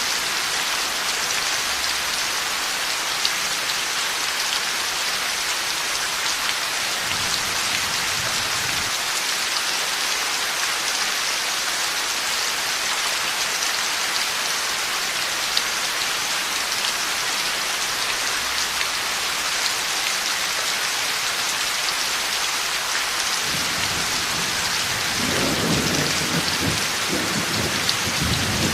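Heavy rain falling steadily in a thunderstorm, with low thunder rumbling in near the end.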